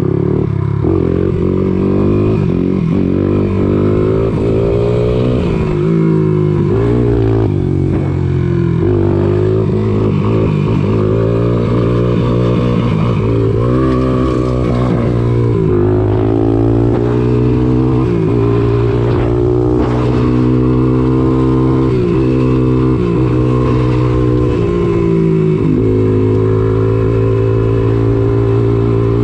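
1986 Honda ATC200X three-wheeler's single-cylinder four-stroke engine running through its CRF230 exhaust, revving up and down repeatedly, then holding a steadier note over roughly the last dozen seconds.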